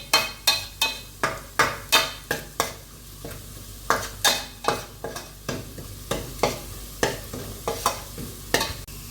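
A spoon stirring chicken frying in a pan, scraping and knocking against it in quick strokes about two to three a second, over a faint sizzle. There is a short lull about three seconds in, and the strokes are sparser after that.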